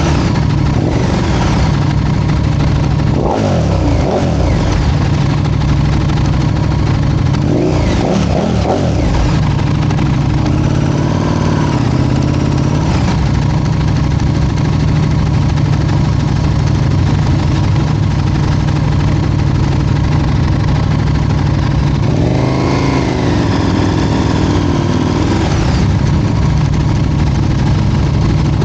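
Motorcycle engines idling steadily, with engine revs rising and falling a few times.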